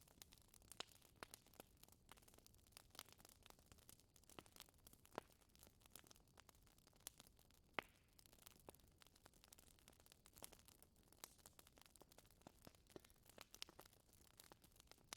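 Wood fire crackling in a fireplace: quiet, irregular small snaps and pops over a faint hiss, with one sharper crack about eight seconds in.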